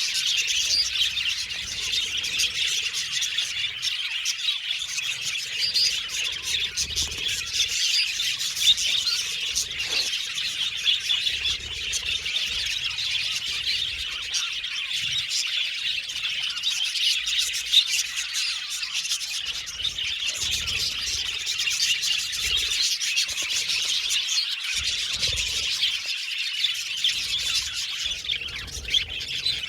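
A flock of budgies chirping and warbling together in a constant, dense chatter of overlapping high chirps and whistles.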